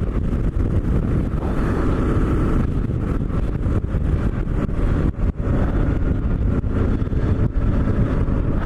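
Kawasaki KLR650's single-cylinder four-stroke engine running steadily at riding speed, with wind noise on the microphone. The level dips briefly about five seconds in.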